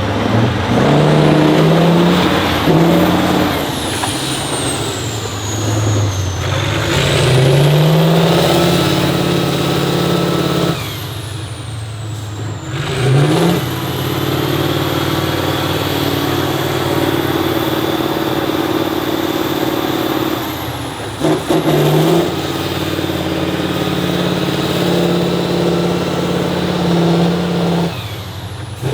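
Off-road competition truck's diesel engine revving and labouring, its note rising and falling repeatedly, with a high whine gliding up and down above it. The sound dips briefly twice.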